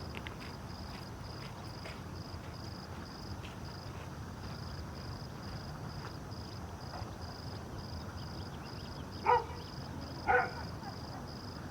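An insect chirps in an even, high pulse about three times a second throughout. Near the end a dog barks twice, about a second apart; these two barks are the loudest sounds.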